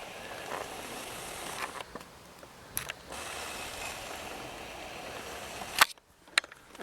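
Camera handling noise over steady faint outdoor background hiss: a few sharp clicks, one about three seconds in and two near the end, with a brief drop almost to silence just before the end.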